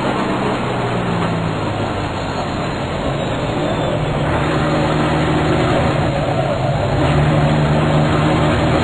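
Mercedes-Benz Axor race truck's diesel engine heard from inside the cab, running hard at speed over heavy road and wind noise. The engine note grows stronger about halfway through.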